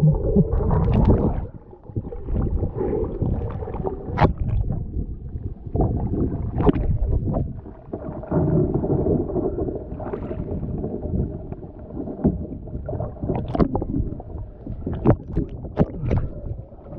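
Kayak paddling: water sloshing and gurgling, with irregular sharp splashes from the paddle, over a steady low rumble.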